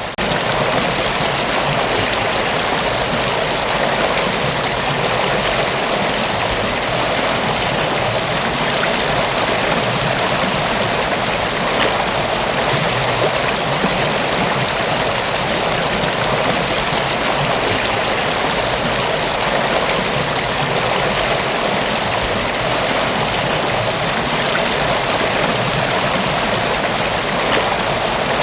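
Mountain waterfall: a steady, even rush of falling water, fullest in the higher pitches.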